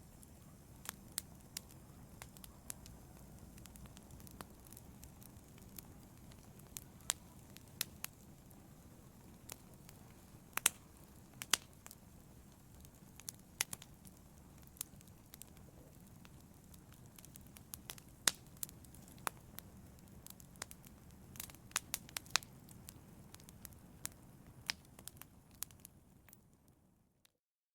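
Wood fire crackling in a fireplace: irregular sharp pops and snaps over a low, steady rumble of the flames. The sound cuts off abruptly near the end.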